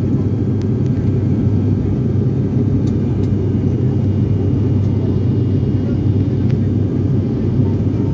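Steady low rumble of an airliner's engines and airflow heard from inside the passenger cabin, even and unchanging.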